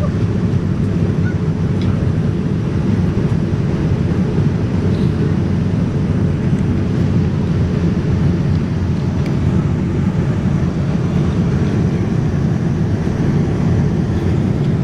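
Steady, even rumble of a Boeing 787-9's engines and airflow heard from inside the cabin, with no distinct events.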